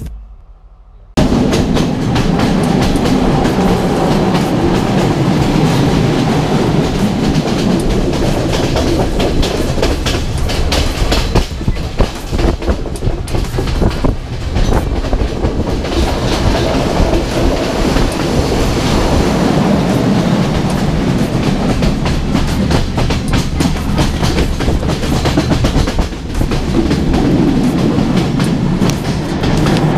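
Passenger train running along the track, heard from an open carriage window: a loud, steady rumble of wheels on rail with rapid clickety-clack over the rail joints. It starts abruptly about a second in.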